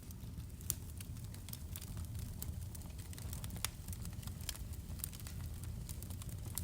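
Wood fire in a fireplace crackling, with frequent irregular sharp pops over a steady low rumble of the flames. The strongest pops come just under a second in and about halfway through.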